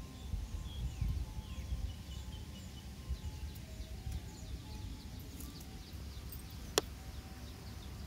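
Outdoor woodland ambience: many short high bird chirps over a low uneven rumble of wind or handling, with a single sharp click about seven seconds in.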